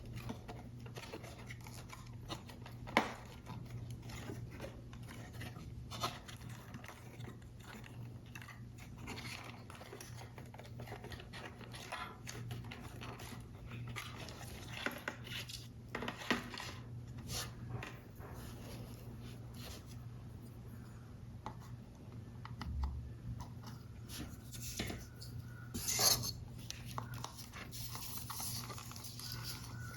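Small tapping, clicking and rubbing sounds of paper model pieces being handled and worked on a desk, irregularly spaced, with a sharper click about three seconds in and another near the end, over a steady low hum.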